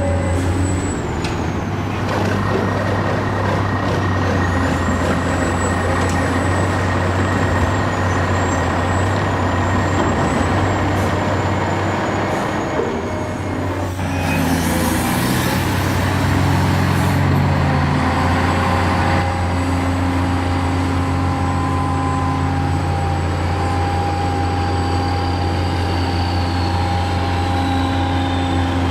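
Heavy truck engine running steadily, with a burst of hissing about halfway through.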